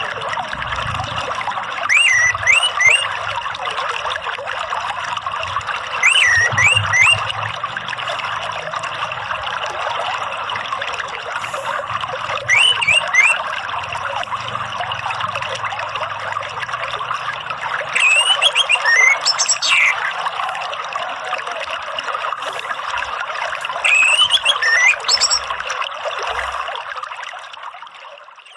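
Running water trickling steadily, with short whistled phrases of two or three quick rising-and-falling notes from an orange-headed thrush about every six seconds. The water fades out at the end.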